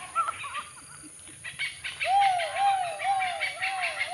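A bird calling a run of about six hooting notes, each rising then falling in pitch, about two a second, starting about two seconds in, over the chirping of other birds.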